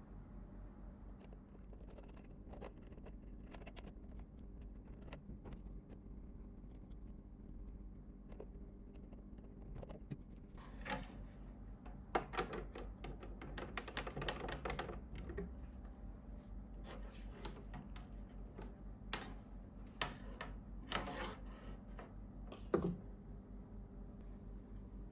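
Light metallic clicks and jangling rattles of small parts and tools being handled, with busy flurries about ten seconds in and again about twenty seconds in, and one sharp click near the end, over a steady low electrical hum.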